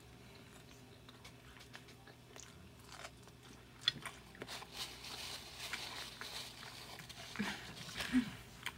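Close-miked chewing of a mouthful of carne asada fries with shrimp: soft, wet mouth sounds. A sharp click comes about four seconds in as the fork hits the plate, and the chewing gets busier after it.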